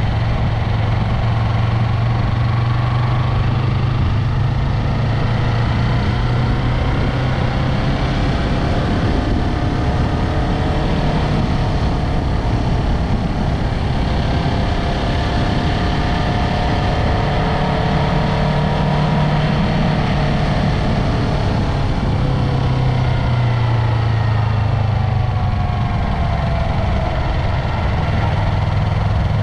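Yamaha MT-03 motorcycle engine running under way, with a strong steady low hum. Its pitch rises and falls slowly as the revs change.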